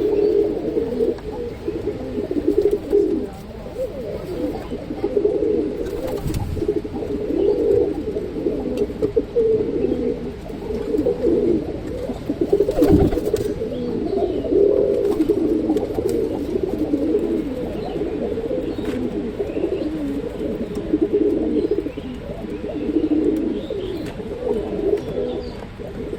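Shiraji fancy pigeons cooing continuously in overlapping low, rolling coos, with a couple of brief knocks about six and thirteen seconds in.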